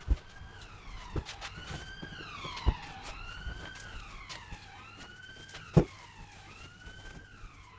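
An emergency vehicle's siren in a slow wail, its pitch rising and falling in long sweeps. Several sharp knocks sound over it, the loudest a couple of seconds before the end.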